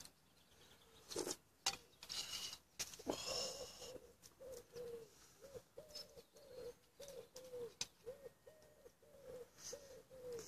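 A bird calls a long, regular run of short, low notes, about two a second, starting a few seconds in. In the first few seconds a spoon clinks and knocks against a mug.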